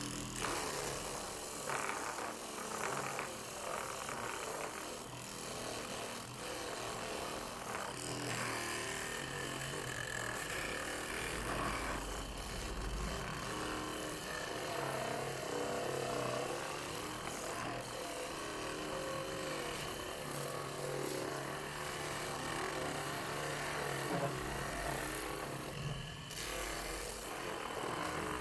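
Homemade drill press and drum sander machine running under power and working a piece of wood, a continuous uneven grinding noise that rises and falls as the work is pressed against it.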